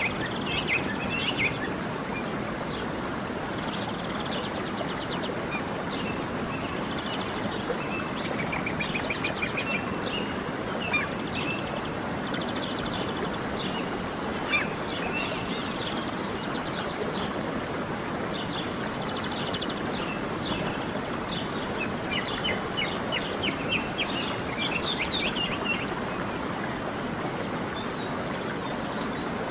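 Steady rushing of a stream with birds singing over it: many short chirps and fast trills, thinning out for the last few seconds.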